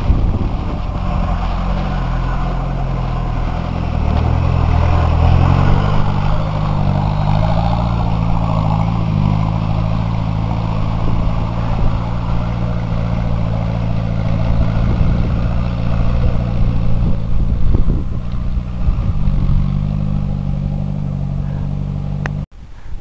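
Off-road 4x4's engine running under load as it drives through a muddy gully, its pitch rising and falling with the throttle. The sound cuts off abruptly near the end.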